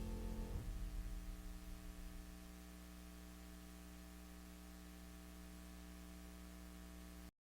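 The tail of background music dies away in the first two seconds, leaving a faint, steady electrical hum with hiss that cuts off abruptly near the end.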